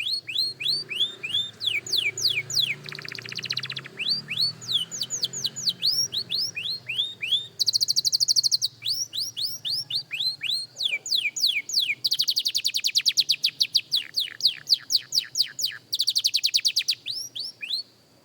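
Young canary singing: runs of quick falling whistled notes, about three or four a second, broken by fast trills, with a lower trill a few seconds in and a long fast trill about twelve seconds in. The song stops just before the end.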